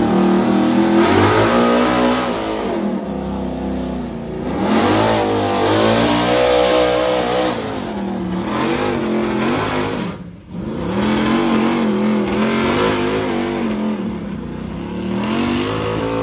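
A pulling vehicle's engine revving hard, its pitch rising and falling again and again. About ten seconds in, the sound drops out briefly, then it picks up and keeps revving.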